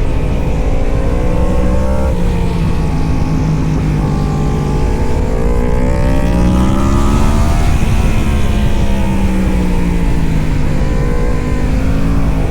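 Racing superbike engines at speed, the engine note rising and falling repeatedly as the bikes accelerate, shift and slow.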